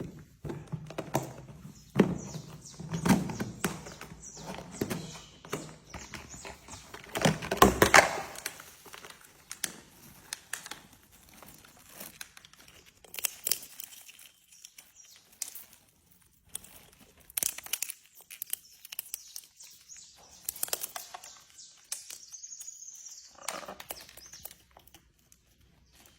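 Irregular clicking, knocking and crinkling of objects being handled, loudest in a cluster about eight seconds in, with a short high rising-and-falling squeak near the end.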